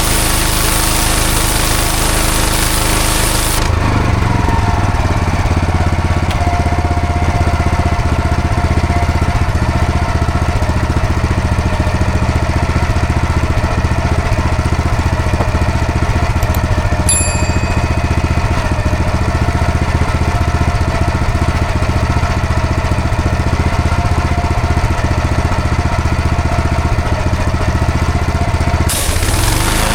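Engine-driven pressure washer running steadily, its water jet hissing at first; about four seconds in the spray cuts off abruptly while the engine runs on, and the spray starts again near the end.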